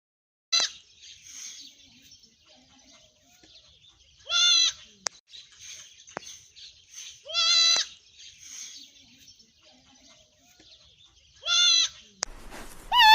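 Goat bleating: a short high cry, then three loud, quavering bleats about three seconds apart.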